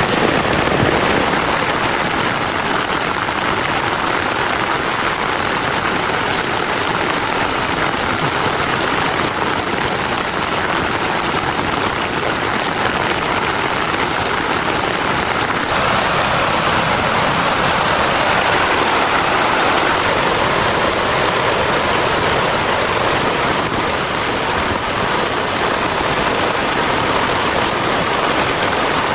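Heavy rain falling steadily: a loud, dense, even hiss with no let-up.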